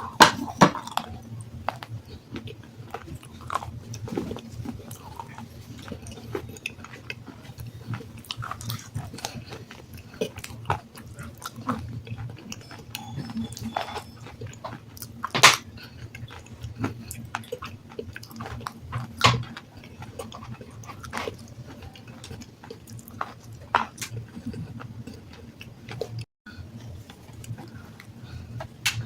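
Person biting and chewing water-soaked black sandstone: irregular gritty crunches and crackles, with a few sharper cracking bites, over a steady low hum.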